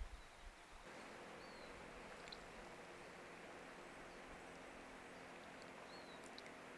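Faint, steady outdoor hiss with a couple of brief, high chirps and a few light clicks. A low rumble fades out in the first second.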